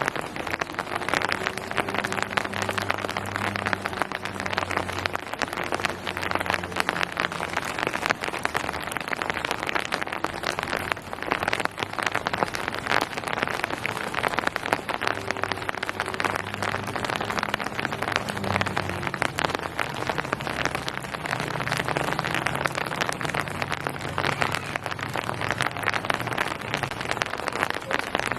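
Steady heavy rain falling on a hard surface, a dense patter of drops. A low hum swells and fades a few times underneath.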